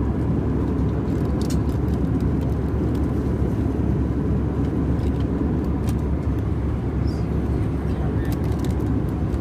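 Steady in-flight cabin noise of an Airbus A320-211 with CFM56 engines: a constant low rush of airflow and engine noise, with a few faint light clicks.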